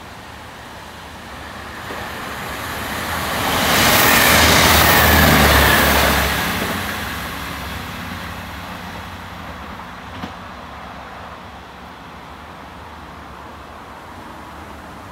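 Electric passenger train passing through at speed on a third-rail line. It grows louder, peaks for about two seconds with a whine that falls in pitch as it goes by, then fades into the distance.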